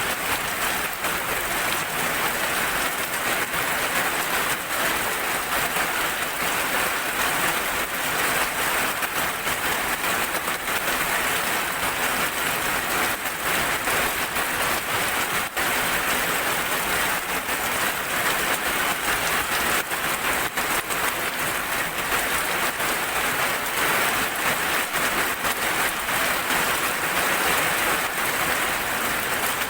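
Steady rain falling: an even, dense hiss of many drops.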